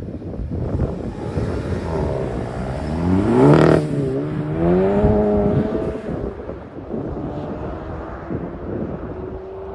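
Turbocharged 2.0-litre four-cylinder of a VW GTI, exhaust through a GTI TCR muffler, accelerating hard: the pitch climbs, a gear change with a brief burst of noise comes about three and a half seconds in, the pitch climbs again, and the engine lets off around six seconds. Wind buffets the microphone throughout.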